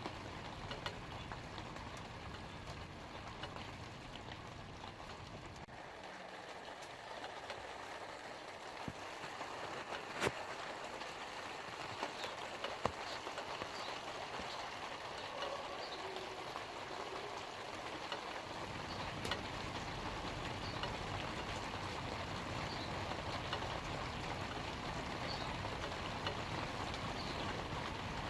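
Steady light rain falling on leaves, an even hiss with scattered individual drops ticking. A low rumble runs underneath at the start, fades out for a while, and comes back about two-thirds of the way through.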